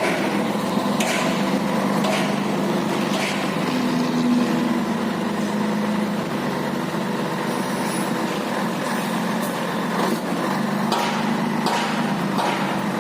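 Scania truck's diesel engine running steadily, with a series of sharp clicks about once a second near the start and again near the end.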